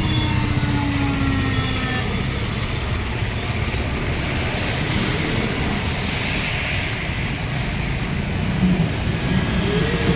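Heavy vehicle engines running steadily. A pitched engine note falls away over the first two seconds, and a short note rises and falls near the end.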